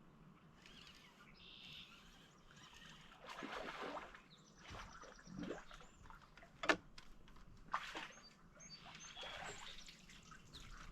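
Faint small-bird chirps over scattered water splashes and rustling, with one sharp click about seven seconds in.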